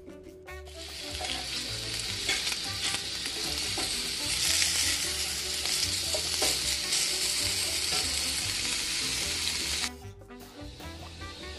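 Food sizzling and crackling as it fries in a hot pot, a dense hiss that starts just under a second in and stops suddenly near the end.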